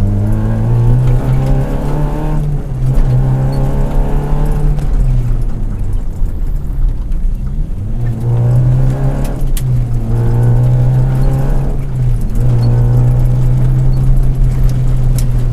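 Rally car engine heard from inside its stripped cabin, pulling under load, with several short breaks in the note where the driver changes gear and the revs climb again.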